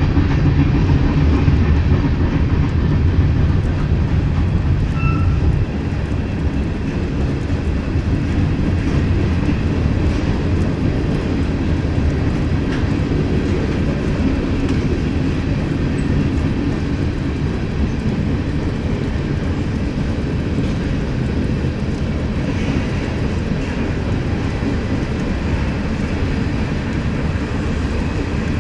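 Freight train cars, tank cars and covered hoppers, rolling past with a steady rumble of steel wheels on the rails. The level drops a little about six seconds in, then holds steady.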